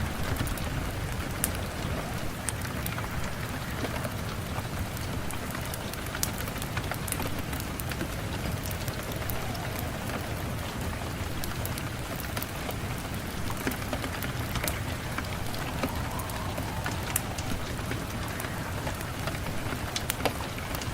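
Steady rain falling, with scattered sharp crackles through it.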